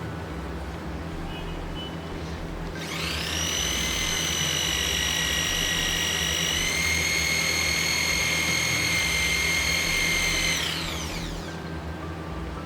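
Aegon AD602 230 W electric drill motor spinning up to a steady high whine, stepping slightly higher about halfway, then winding down.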